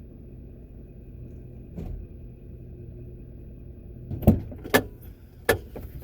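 A vehicle idling with a low steady hum, a soft knock about two seconds in, then three sharp knocks and clunks near the end.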